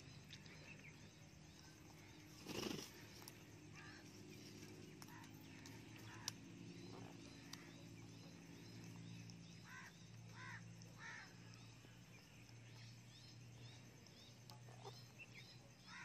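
Quiet garden ambience: faint, short bird chirps scattered throughout over a low steady hum, with one brief loud noisy sound about two and a half seconds in and a sharp click about six seconds in.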